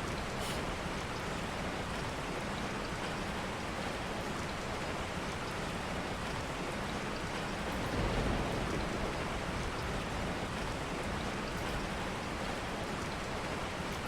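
Steady rain falling, an even hiss of drops on a surface, with one brief low rumble about eight seconds in.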